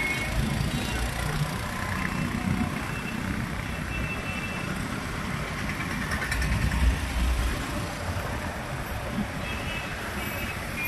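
Busy street traffic heard from a moving motorbike: a steady rumble of engines and road noise, with a short horn-like tone near the end.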